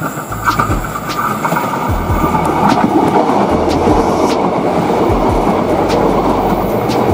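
Prameks diesel multiple unit passing close by, a loud rumble of running gear with wheels clacking now and then over rail joints. The rumble swells about two and a half seconds in as the cars run past.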